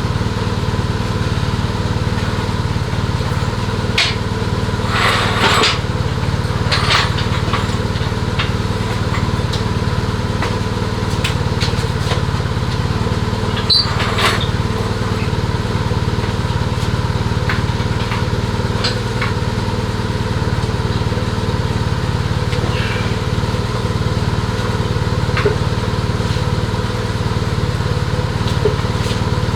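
A small engine running steadily at an even speed, with scattered clicks and knocks over it.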